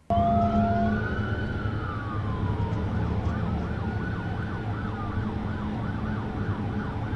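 Police car siren, starting abruptly with a slow rising-and-falling wail and changing to a fast yelp about four seconds in, over the low rumble of the pursuing car's engine and road noise.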